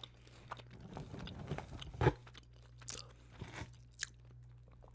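Close-miked chewing of crispy fried chicken tenders: soft crunches and wet mouth clicks, with one louder crunch about two seconds in, over a steady low hum.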